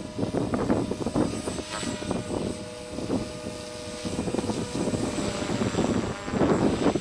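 Beam Acro480 electric RC helicopter in freestyle flight: its brushless motor holds a steady whine while the main-rotor noise surges and eases with the manoeuvres, swelling louder near the end.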